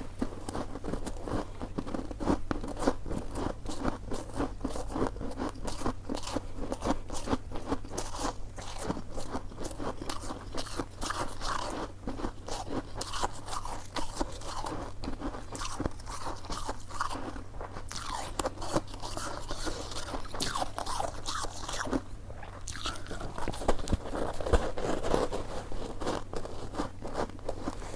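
Close-miked chewing of coconut sticky rice cake: a steady, dense run of small mouth clicks and smacks.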